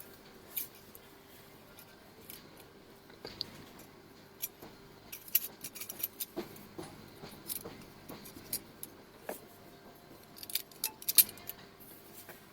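Metal tap parts clinking and scraping as they are handled and fitted together, the threaded stainless pipe being turned into the base of the tap: irregular short metallic clicks, thickest near the end.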